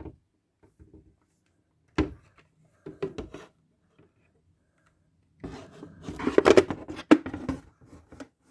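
A hard plastic replica helmet is being handled and turned over. A few light knocks come first, then a couple of seconds of rubbing and rattling with sharp clicks near the end.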